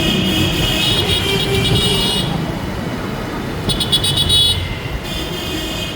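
Road traffic with a high-pitched tone sounding over it twice, the second time broken into a quick stutter.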